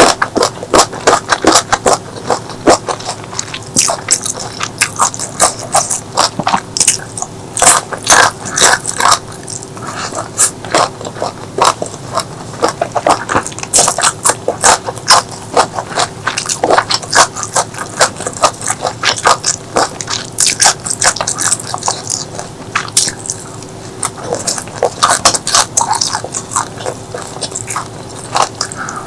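Close-miked eating sounds: biting into and chewing crunchy food, a dense, irregular run of crackling clicks.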